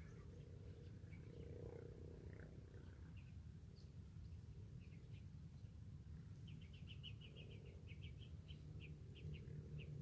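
Near silence over a low steady rumble, with faint small-bird chirps scattered through, including a quick run of chirps about two-thirds of the way in.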